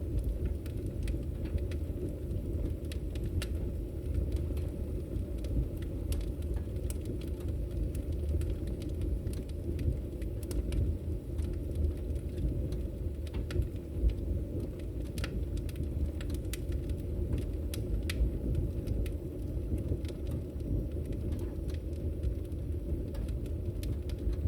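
Wood fire crackling in a fireplace: a steady low rush of burning with irregular sharp pops and crackles scattered throughout.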